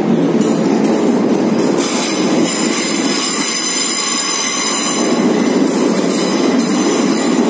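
GWR Class 387 electric multiple unit running in along the platform: a steady rumble of wheels on rails. From about two seconds in until near the end, a high-pitched squeal of several tones rides over it as the train slows.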